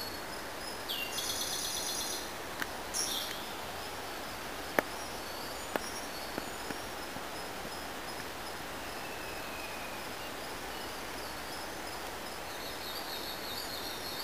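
Forest birds calling over a steady outdoor hiss: a loud high trill about a second in, another shorter one near 3 s and a softer trill near the end, with faint repeated high notes throughout. A few sharp clicks fall in the middle, the loudest about five seconds in.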